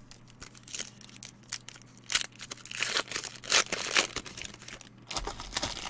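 Trading-card pack wrapper being crinkled and torn open, an irregular run of crackles and rustles.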